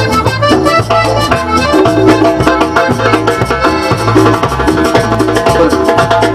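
Cumbia band playing live: an instrumental stretch with a steady percussion beat over a bass line and held melodic notes.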